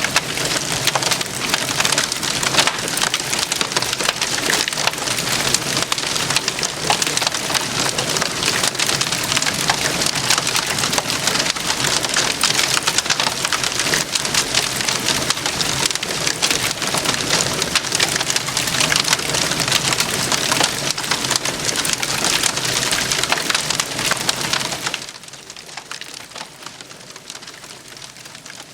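Wood campfire crackling and popping densely and steadily. About 25 seconds in it drops suddenly to a much quieter crackle.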